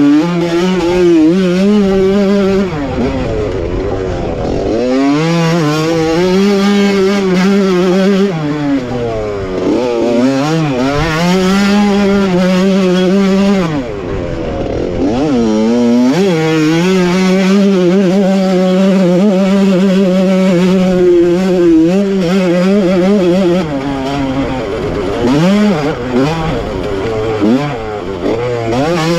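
Onboard sound of a 1985 Honda CR125's single-cylinder two-stroke engine being raced hard: it holds a steady high-revving pitch for long stretches, and several times the revs drop and climb back up as the rider shuts off and gets back on the throttle.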